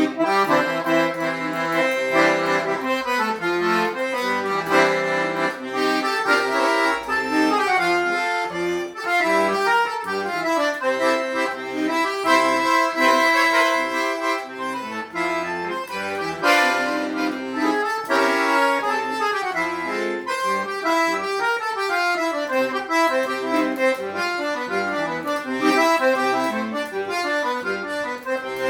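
Accordion playing a quick, lively folk melody in the right hand over short repeated bass notes, with no singing.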